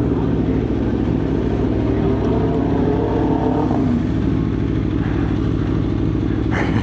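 Aprilia Tuono V4's V4 engine running at steady part throttle, its pitch easing down slightly about halfway through, with a couple of sharp clicks near the end.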